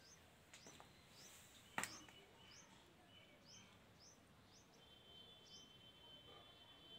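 Faint, repeated high chirps from a small bird, roughly two a second, with one sharp click about two seconds in.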